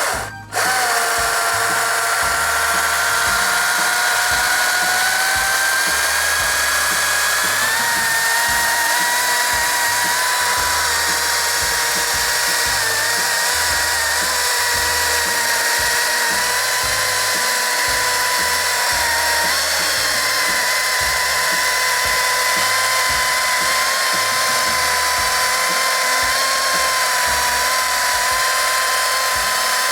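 Electric chainsaw running continuously while cutting, a steady motor whine that rises slowly in pitch over the first several seconds and shifts a little in pitch twice as the load changes.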